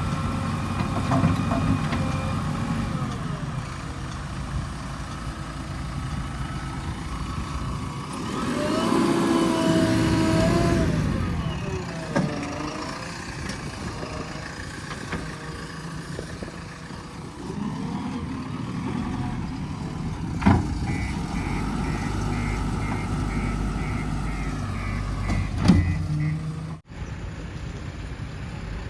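Diesel engines of heavy machinery and trucks running steadily, with a louder stretch of wavering engine note partway through. Near the end, a short run of evenly spaced high beeps like a reversing alarm, and two sharp knocks.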